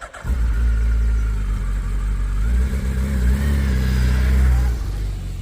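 Suzuki Hayabusa GSX1300R inline-four engine catching about a quarter second in and running, with a slight rise in revs past the middle, then easing off and cutting off suddenly at the end.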